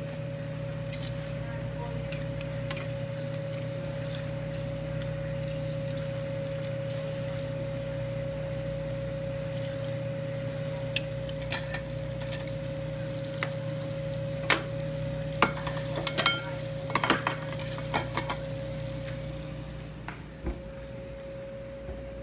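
Meatballs sizzling steadily in hot oil over a constant hum. In the second half, metal tongs and a mesh strainer clink and knock sharply against each other several times as the meatballs are handled. The sizzle fades near the end.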